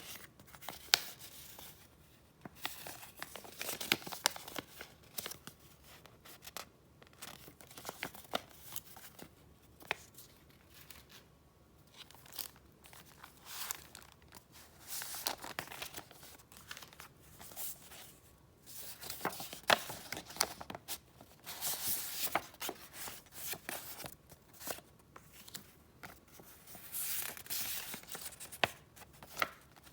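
Paper goods and their wrapping being handled, rustling and crinkling in irregular bursts with a few sharp clicks and short pauses between.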